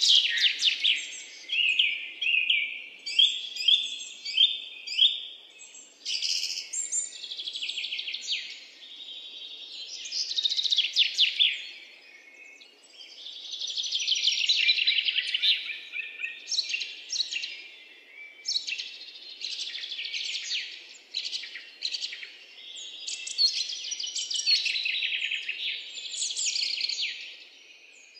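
Birds singing: rapid high chirps and trills in phrases of a few seconds, one after another with short pauses.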